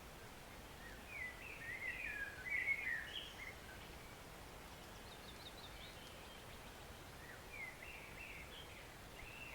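A songbird singing two short warbling phrases, one about a second in and another near the end, with a brief run of quick high notes between them, over the faint steady rush of a woodland stream.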